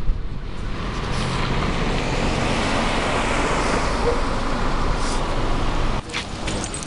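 A road vehicle driving past: its rushing tyre and engine noise swells, peaks and fades away over a few seconds, over a low rumble.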